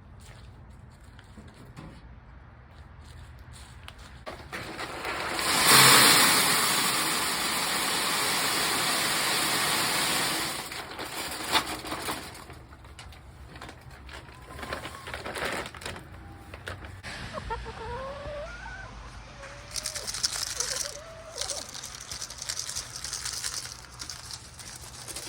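Chicken feed poured into a metal feeder hopper: a loud, even rush of grain for about five seconds. After that, chickens cluck and coo with short rising and falling calls.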